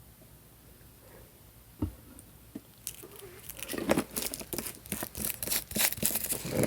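Close-miked mukbang eating and food-handling sounds: one knock about two seconds in, then from about three seconds a growing run of sharp, wet clicks and crackles of chewing and handling food.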